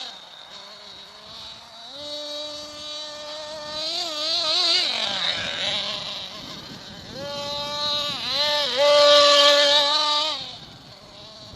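Nitro-fuelled RC monster truck engine (Ansmann Hogzilla) revving high and holding there twice, with quick throttle blips that make the pitch wobble, easing off to a lower, quieter run between the two pulls and again near the end.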